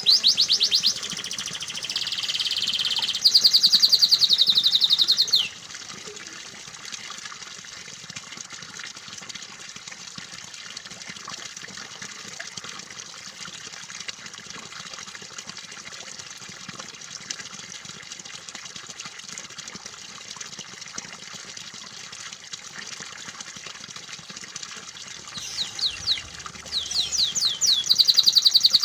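Canary singing fast, rolling trills for about five seconds. The song then stops, leaving a long stretch of steady trickling water, and the canary song returns near the end.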